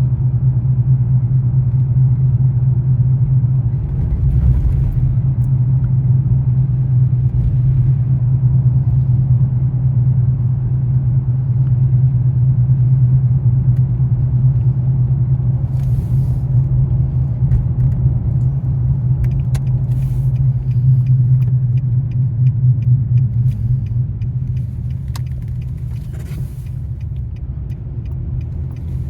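Car driving on a slushy, snow-covered road: a steady low drone of engine and tyres, with a scattering of light clicks in the second half.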